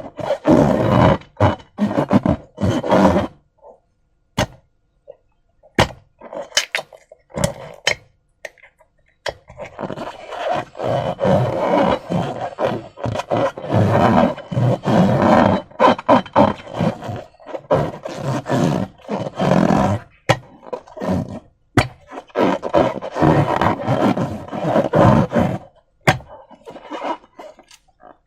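Hands squeezing and stretching slime and rubber balloons: irregular wet squelching and sticky crackling with sharp clicks, in long bursts broken by short pauses about four and eight seconds in.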